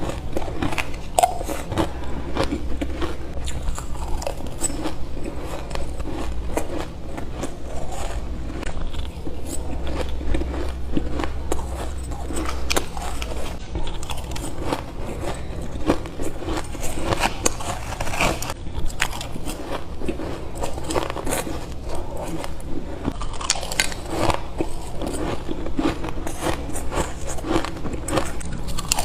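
Ice being bitten and chewed close to the microphone: a steady run of crisp crunches and crackles, one bite after another.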